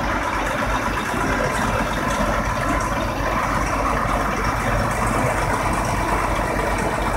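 Diesel engine of a large pivot-steer farm tractor running at a steady, even drone as the tractor drives slowly past.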